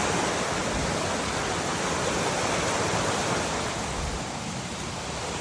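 Steady rush of a river running heavy with rainwater, an even roar of flowing water that eases a little near the end.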